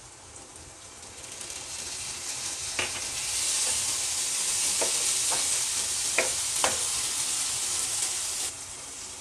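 Chopped onions and garlic sizzling in hot oil in a non-stick frying pan while being stirred with a wooden spatula. The sizzle swells over the first few seconds, stays loud, then eases a little near the end, with a few short clicks of the spatula on the pan.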